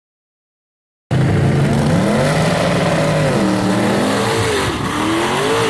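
Silence, then about a second in a mud truck's big engine starts sounding loud, revving up and down repeatedly over a noisy wash.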